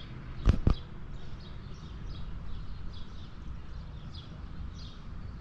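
A small bird chirping over and over, short high chirps about two or three a second. Two sharp knocks come about half a second in, over a low steady rumble.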